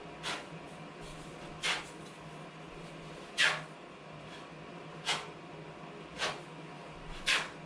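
Six short scraping strokes of a hand tool working drywall compound on a wall, one about every second to second and a half, with a steady faint hum behind them.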